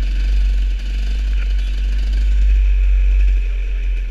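A motor vehicle's engine running steadily under a heavy low rumble.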